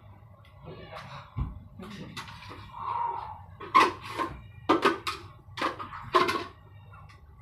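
Sharp clanks and knocks of hard objects being handled: a few faint knocks, then about five loud ringing strikes in the second half.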